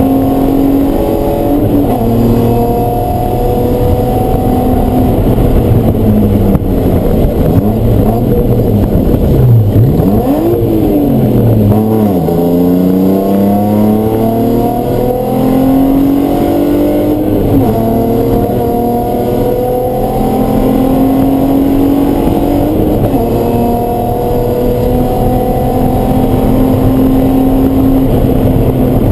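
Race car engine running hard on track, the revs climbing and dropping back through gear changes. About ten seconds in the revs fall away with a few quick blips, as on downshifts into a slow corner, then climb again through the upshifts.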